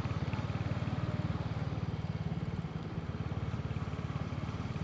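Royal Enfield motorcycle engine running steadily as the bike rides along, with a rapid, even pulsing exhaust note that eases slightly for a moment midway.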